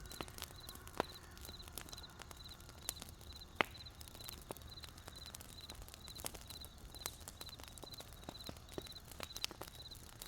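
Wood campfire crackling, with scattered sharp pops, the loudest about a second and three and a half seconds in. A cricket chirps steadily behind it, short high chirps about two to three times a second.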